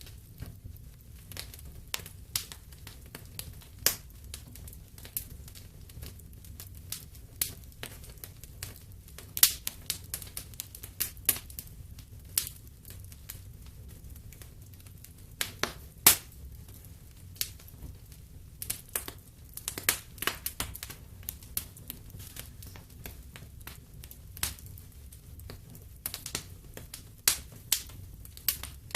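Wood fire crackling in a fireplace: irregular sharp pops and snaps, several a second, a few louder cracks among them, over a low steady rumble of the flames.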